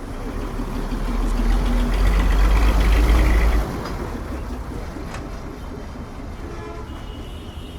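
A motor vehicle passing close by on a street, its deep engine rumble building for about three seconds and then dropping away sharply, leaving steady street traffic noise.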